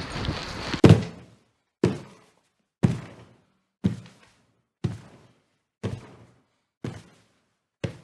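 Wind noise on the microphone that cuts off abruptly just under a second in, followed by a dull knock repeating evenly about once a second, each one dying away quickly.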